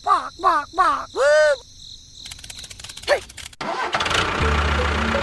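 Quick high chirping whistles that sweep up and down, then a few faint clicks. About three and a half seconds in, a small engine cuts in suddenly and runs steadily.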